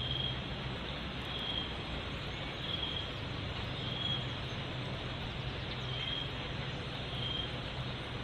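A bird repeats a single short, high note about every second or two over a steady background hiss and low hum.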